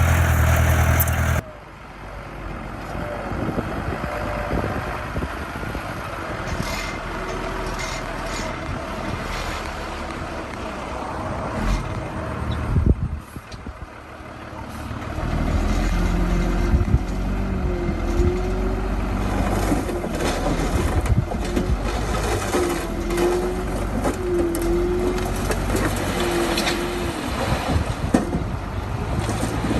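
Diesel engine of heavy earthmoving machinery running steadily, with an abrupt change about a second in and a brief lull near the middle. In the second half, short squeals repeat over the engine.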